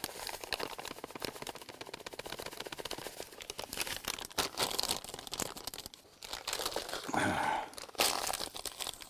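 Plastic bait packets crinkling and rustling as they are handled while dry fishing bait is measured out, with a dense run of small crackles that drops away briefly about six seconds in.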